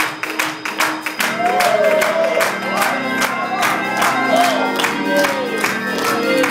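Church band playing an upbeat praise groove: organ chords held under a fast, steady drum beat, with voices sliding up and down over the music.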